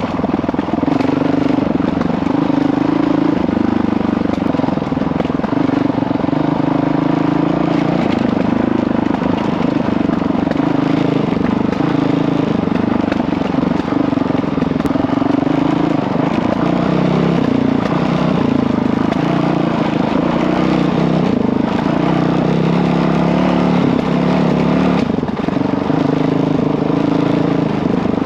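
Single-cylinder four-stroke Honda CRF dirt bike engine running under riding load, its pitch rising and falling as the throttle is opened and eased off, with wind and trail noise under it.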